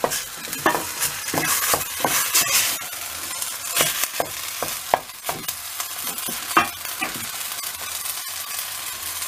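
Grated potato mixture frying with a steady sizzle in a stainless steel pot over the gas flame, while a wooden spoon stirs and scrapes through it, knocking against the pot many times.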